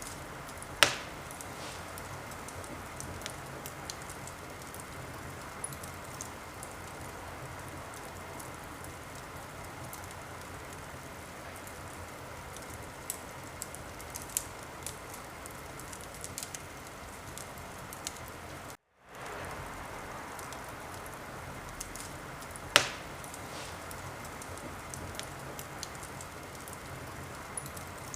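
Fireplace fire crackling steadily, with scattered small ticks and two sharp, louder pops, one about a second in and one near the end. The sound cuts out completely for a moment about two-thirds of the way through.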